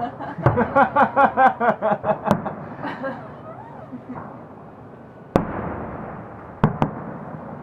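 Fireworks salute going off: a rapid string of about a dozen sharp bangs in the first two seconds. One loud bang follows about five seconds in, with a long rumbling tail, and two more sharp bangs come close together near the end.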